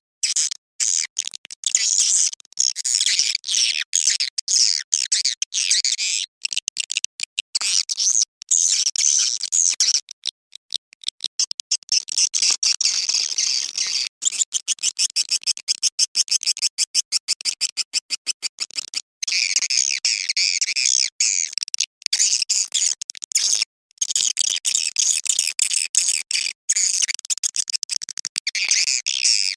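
A dense, high-pitched chorus of swiftlet chirps and twitters, chopped by many brief gaps. It is a swiftlet calling sound of the kind played to lure swiftlets.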